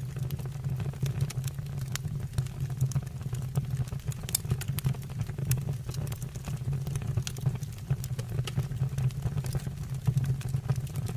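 Wood fire burning in a stove or fireplace: a steady low rumble of the flames with frequent sharp crackles and pops of the burning wood.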